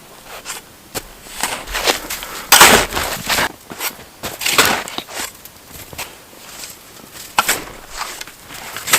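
Fresh snow crunching in irregular bursts from shovelling and piling snow, the loudest crunch about two and a half seconds in.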